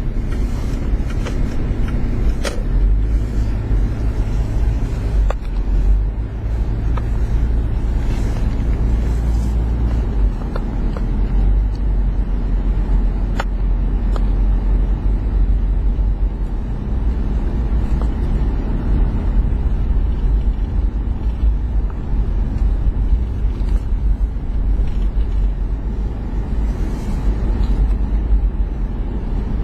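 Motor vehicle engine running steadily with a low, continuous drone, and a few faint clicks.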